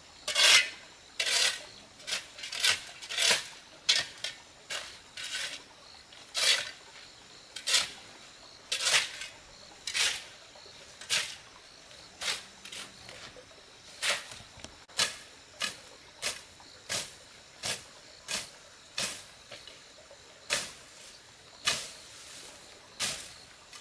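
A long series of short, sharp scraping strokes at an uneven pace, roughly one to two a second, from hand work with a tool or utensil.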